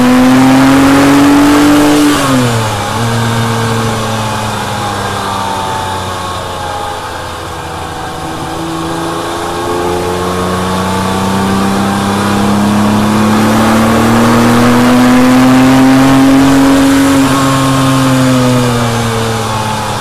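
Porsche 997.1 911 Turbo's 3.6-litre twin-turbo flat-six heard from inside the cabin under hard driving on track. The revs drop sharply about two seconds in as the driver comes off the throttle, then the engine pulls in fourth gear with the pitch climbing slowly through the middle and easing back near the end.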